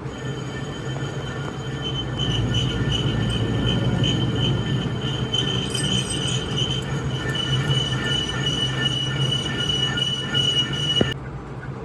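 Steady high-pitched metallic squeal over a low mechanical rumble, cutting off abruptly near the end.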